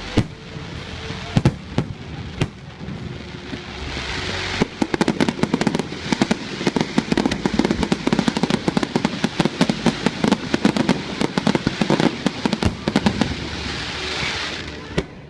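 Aerial fireworks going off: a few separate bangs in the first seconds, then from about five seconds in a dense, rapid crackle of many small reports for nine seconds or so, easing off near the end.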